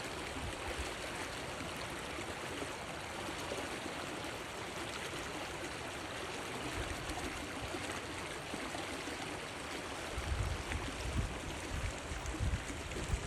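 A river running steadily, an even rushing of flowing water. Low bumps on the microphone come and go in the last few seconds.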